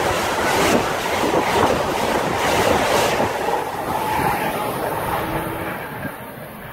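Amtrak passenger train passing at speed: a rushing roar of wheels on rail with a few sharp clacks, fading as the last cars go by and dropping off about six seconds in.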